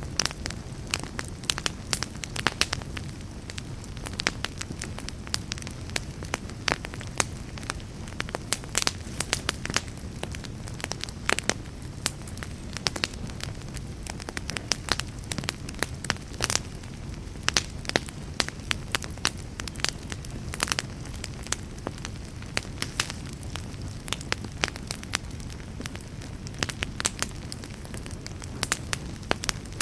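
Wood fire burning, with a steady low rumble and many irregular sharp crackles and pops.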